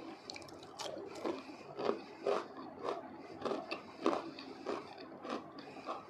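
Close-miked chewing of crispy fried potato pieces, a steady run of crunches about two a second.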